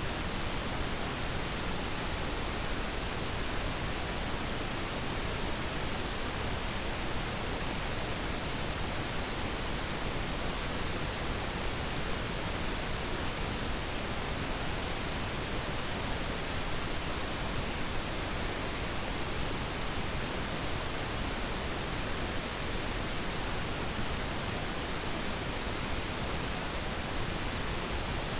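Steady pink noise: an even, unchanging hiss with no tones or events.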